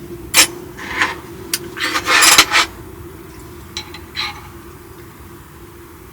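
Cookware and metal utensils clinking and scraping in a handful of short clatters, loudest in a cluster about two seconds in, over a steady low hum.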